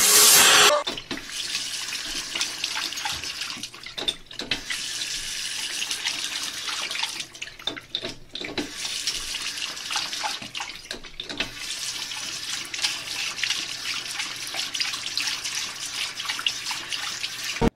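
Water running steadily, as from a tap into a sink, with scattered small clicks and splashes. A louder rushing noise cuts off abruptly under a second in.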